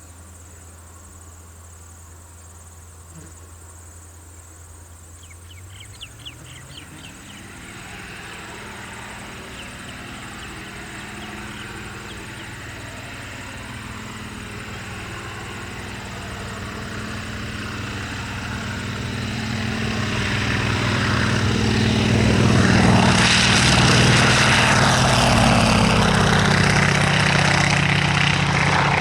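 Nanchang CJ-6's nine-cylinder radial engine and propeller opening up to takeoff power, the pitch rising about seven seconds in. It then grows steadily louder as the aircraft takes off and comes past, and is loudest a few seconds before the end.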